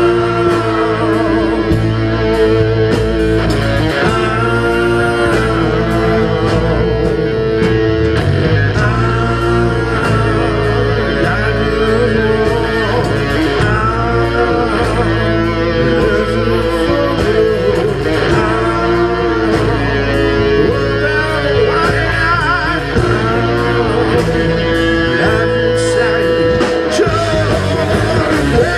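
A rock band playing live: electric guitars, bass and drums with a singer's voice over them, loud and continuous.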